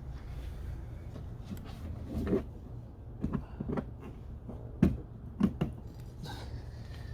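Irregular knocks and clunks of parts and tools being handled during hands-on work at the car's cowl and hood area, about half a dozen, the loudest a sharp knock near the five-second mark, over a steady low hum.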